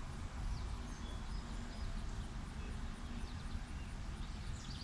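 Faint bird chirps over a steady low rumble, with a short trill near the end.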